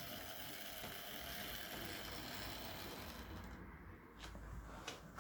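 Hornby Dublo R1 0-6-0 tank engine model running on its track pulling tinplate coaches: a steady mechanical whirr and rattle from its motor and wheels that dies away about three seconds in as the train slows, leaving a few faint clicks.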